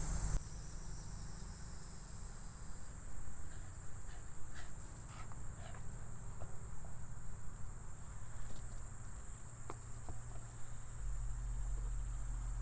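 Crickets chirping in a steady, high-pitched trill, over a low hum and a few faint clicks.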